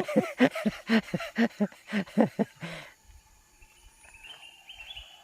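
A man laughing in a quick run of short bursts for about three seconds, dying away. Faint, high, rising chirps follow near the end.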